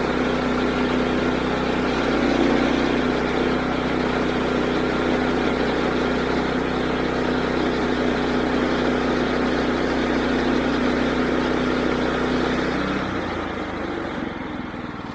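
Woodland Mills HM122 band sawmill's 9.5 hp engine running steadily at speed, driving the band blade. About thirteen seconds in it drops to a lower, quieter idle.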